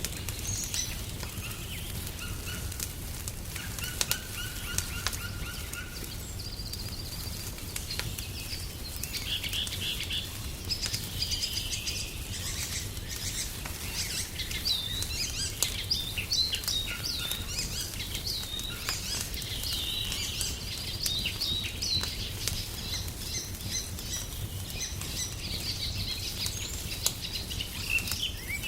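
Songbirds chirping and trilling over the scattered sharp pops and crackles of a wood fire burning in a fireplace, with a steady low rumble underneath.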